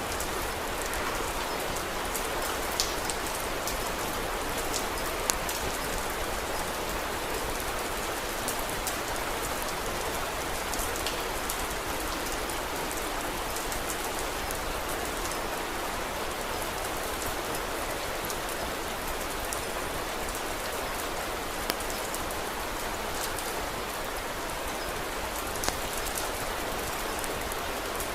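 Steady rain falling, with a few isolated sharp crackles from a wood fire in a fireplace.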